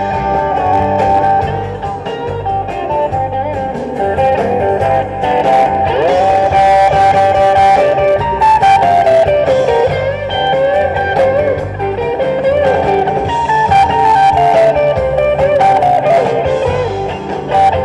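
Rock-and-roll band's instrumental break: a lead guitar solo with bent notes over a steady bass and drum beat.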